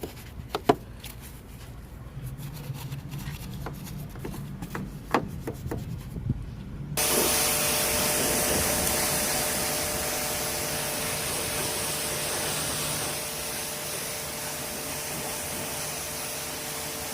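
Scrubbing and rubbing with scattered clicks, then about seven seconds in a pressurised detailing tool starts suddenly with a loud, steady hiss and a whine under it.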